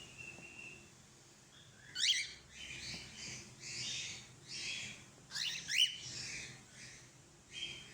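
A cockatiel making agitated calls: two clusters of quick, sharp rising squawks, with a string of raspy, hiss-like bursts between and after them and a short whistle note at the start and near the end.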